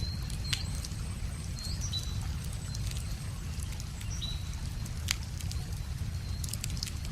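Wood fire crackling, with a few sharp pops, over a steady low rush of river water, while small birds give short high chirps every second or two.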